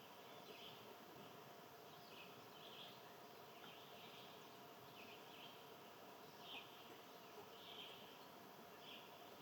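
Faint outdoor ambience with short bird chirps repeating roughly once a second over a steady background hiss.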